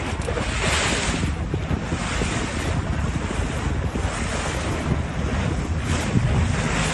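Wind buffeting the microphone over sea waves washing around a small fishing boat, rising and falling in gusts.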